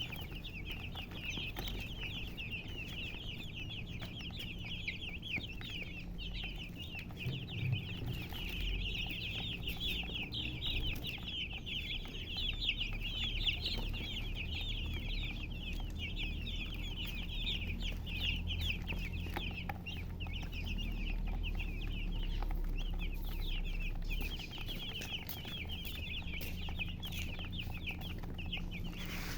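A group of chicks peeping continuously, many short downward-sliding chirps overlapping into a steady high chorus.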